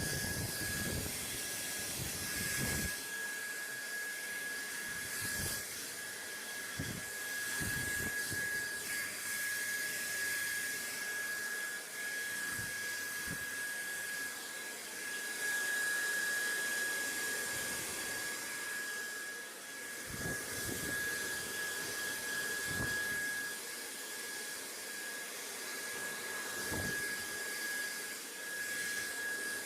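Steady white-noise hiss with a constant thin whine above it. A few short, soft low thumps come and go.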